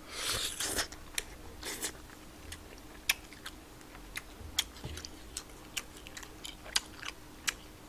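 Close-up eating of tteokbokki: a few soft slurping, chewing noises near the start, then a run of short, sharp wet mouth clicks.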